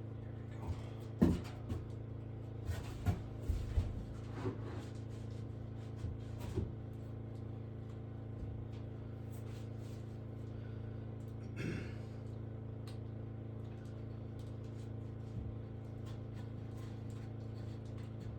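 Scattered knocks and clatters of things being handled and set down, most of them in the first few seconds, with a scrape about two-thirds of the way through, over a steady low hum.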